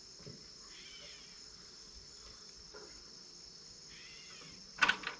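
Steady high-pitched trilling of crickets, with a few faint short chirps. Near the end there are several sharp knocks close together.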